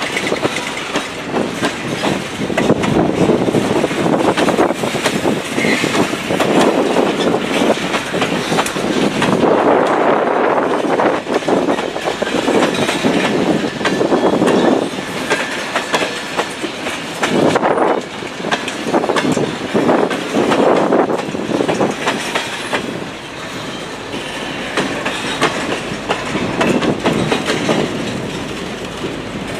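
Freight train tank cars and boxcars rolling past, their steel wheels knocking over the rail joints of the grade crossing. The sound swells each time a set of wheels goes by.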